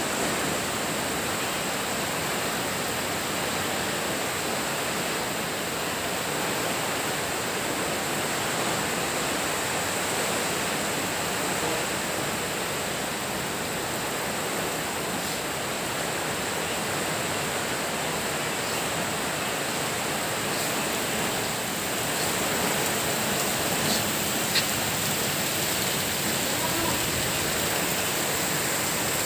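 Heavy rain pouring down as a steady, dense hiss, with a couple of faint ticks about three-quarters of the way through.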